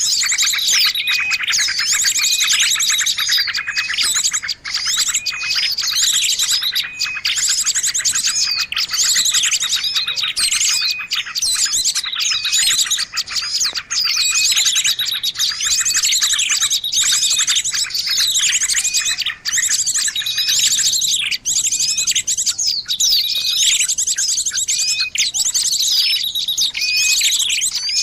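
A noisy bird-lure recording: a dense chorus of small songbirds chirping and trilling over one another, with rapid high trills and a short whistled note that repeats about once a second.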